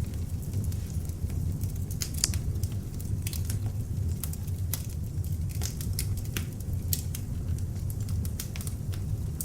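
Beech log fire burning in an open fireplace, crackling with many irregular sharp pops and snaps over a steady low rumble of the flames.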